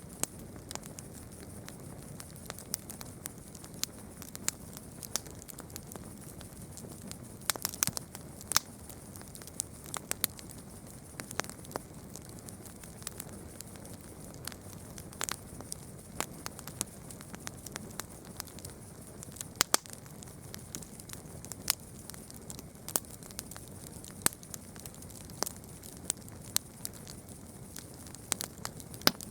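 Campfire crackling: irregular sharp pops and snaps from burning wood, a few louder than the rest, over a steady soft hiss and a constant high-pitched hum.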